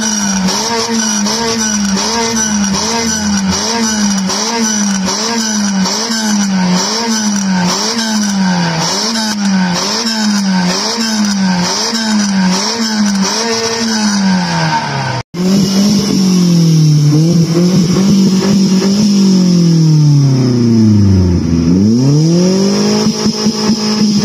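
Nissan Micra four-cylinder petrol engine revved hard through its exhaust in quick, regular blips, about one and a half a second, the revs rising and falling again and again. After a brief break, a Vauxhall Astra's engine is heard. Its revs sink slowly over several seconds, then rise sharply near the end.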